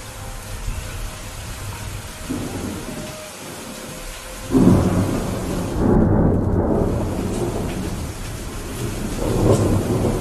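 Rain falling steadily, then a loud rolling thunder rumble breaks in about halfway through and swells again near the end.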